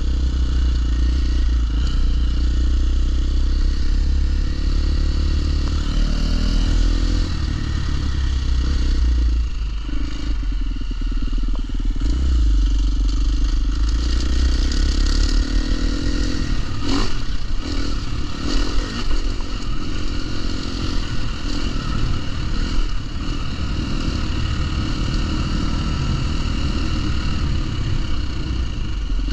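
Dirt bike engine running while being ridden, its pitch shifting with the throttle, with clattering knocks from the bike about 17 seconds in.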